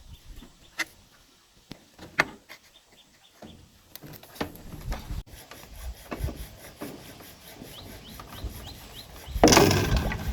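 Wood being handled: scattered sharp knocks and clicks, then denser rubbing and scraping, with a loud scraping rustle about nine seconds in.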